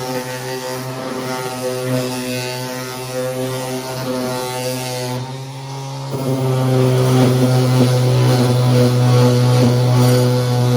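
Electric power sander with 60-grit paper running steadily against the grill's rusty metal to sand the rust down; the motor eases briefly about halfway through, then runs louder for the rest.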